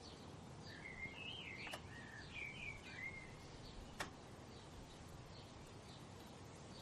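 A songbird sings one warbling phrase of quick rising and falling notes lasting about two and a half seconds, with faint short chirps from other birds over a steady low background hiss. Two sharp clicks cut through, one in the middle of the phrase and one about four seconds in.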